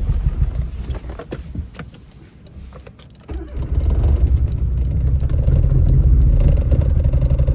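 Suzuki Alto Works' small turbocharged three-cylinder engine running rough with a bad misfire. Its sound sags away for about two seconds, as if about to stall, then comes back strongly a little over three seconds in and runs on steadily. The owner suspects water sprayed around the turbo during a wash.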